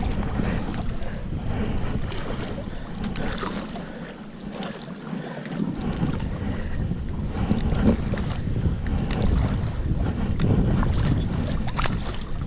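Wind buffeting the microphone in a low rumble that dies away for a couple of seconds near the middle, with small splashes of water from a kayak paddling on a river.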